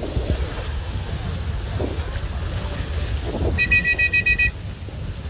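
Steady low rumble with wind buffeting the microphone. About three and a half seconds in comes a quick run of about eight high electronic beeps.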